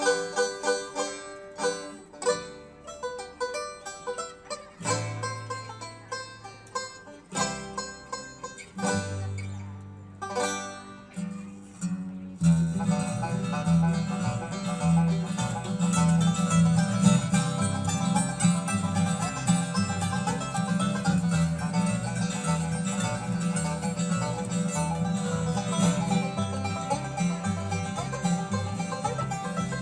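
Bluegrass string band playing a song's instrumental opening. A few picked phrases with short gaps between them come first, and about twelve seconds in the full band comes in with a steady driving rhythm and bass.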